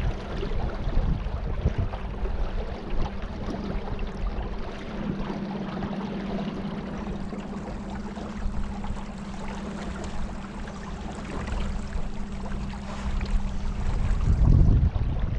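A small boat's motor running steadily under way, a constant hum over the rush of water and wind. A low rumble swells briefly near the end.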